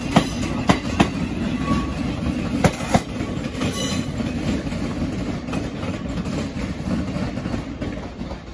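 Thameslink Class 700 electric multiple unit pulling away over pointwork. Its wheels clack sharply over the rail joints and crossings about six times in the first three seconds, over a steady low rumble that fades near the end as the train draws off.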